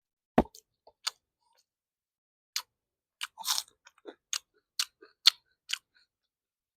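Close-up eating sounds: a single knock about half a second in, then a string of separate crisp crunches and wet mouth clicks as food is chewed.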